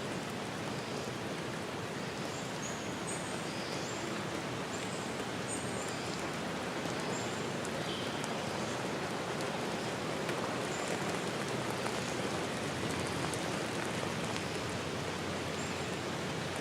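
Steady rain hiss, even throughout, with short high chirps scattered over it.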